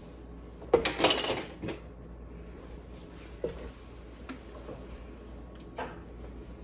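Clattering of parts being handled during work on a refrigerator: a loud rattling burst about a second in, then a few single knocks, over a steady low hum.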